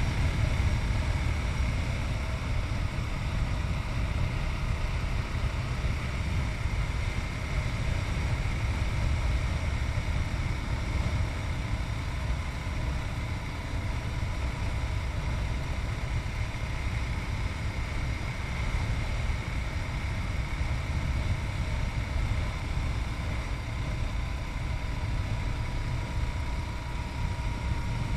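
Yamaha MT-03's 660 cc single-cylinder engine running at a steady road speed, under heavy wind rumble on the rider's chest-mounted camera. The engine note drops a little near the end.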